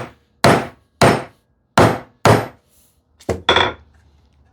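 Hammer tapping the wooden drawer box together for a dry fit, seating the dovetail and housing joints: about six sharp knocks on wood at uneven intervals, the last two close together near the end.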